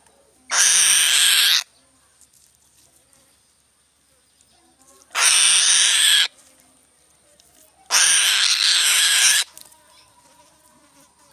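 A bird of prey giving three harsh, hissing screeches, each about a second long, a few seconds apart.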